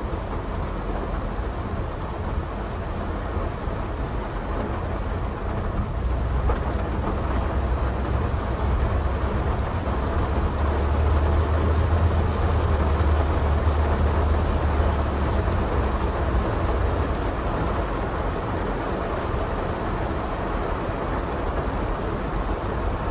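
Honda Brio's engine and road noise heard inside the cabin while driving: a steady low rumble that grows heavier for several seconds in the middle, then eases back.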